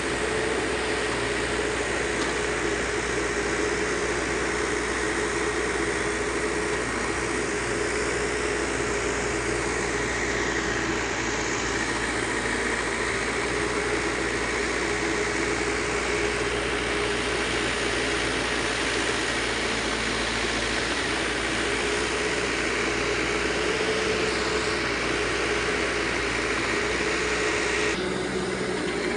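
Backhoe loader's diesel engine running steadily, with a constant tone over its noise.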